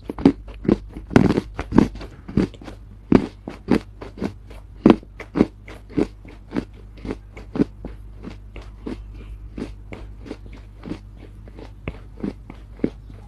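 Soft Chinese loess being chewed close to the microphone: crisp crunches at about two a second, louder over the first few seconds and then softer.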